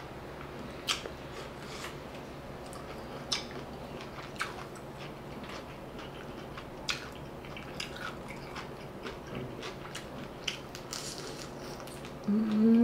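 Person eating fried shrimp with the mouth closed: scattered soft crunches and mouth clicks about once a second. A short hummed "mm" comes near the end and is the loudest sound.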